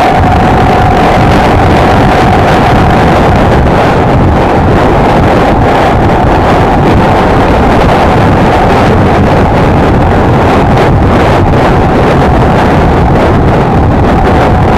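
Honda XLR125R motorcycle's single-cylinder engine running at a steady cruise, with a steady drone and heavy wind noise on the microphone.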